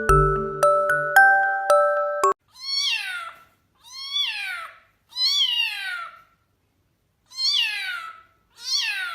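Light chiming mallet-percussion music that cuts off abruptly, then a domestic cat meowing five times. Each meow slides down in pitch, with short silences between them.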